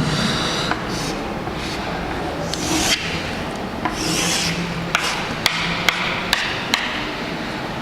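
Writing and drawing strokes, a writing tool scratching across a surface in several short scrapes, then a run of sharp taps about twice a second from about halfway through.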